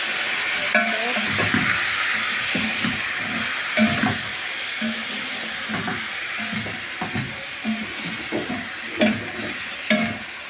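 Chicken pieces sizzling in hot oil in a sufuria (cooking pot), the hiss slowly dying down as the pan cools from the added meat, with scattered knocks against the pot.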